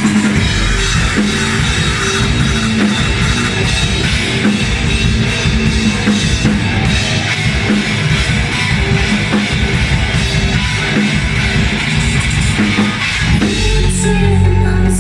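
Live rock band playing loud, with drum kit and guitar; about 13.5 s in the drumming gives way to a held, sustained chord.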